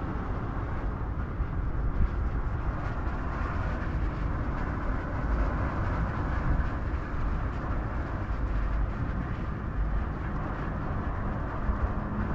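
Chevrolet Corvette ZR1 driving at a steady speed: a low, even drone of engine and tyre-on-road noise, with no revving.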